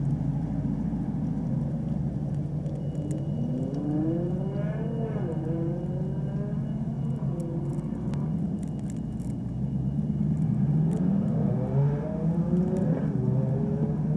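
Chevrolet Camaro SS 1LE's 6.2-litre V8 running at about 1,000 rpm, a steady low drone as the car creeps along at walking pace. Twice, a higher engine note rises and falls in pitch over it.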